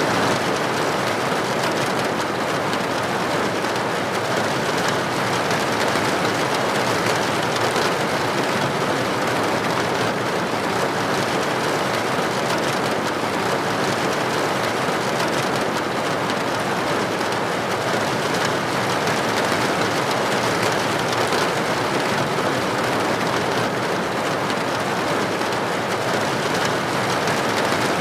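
Steady heavy rain falling on a hard surface, a dense even patter with no breaks.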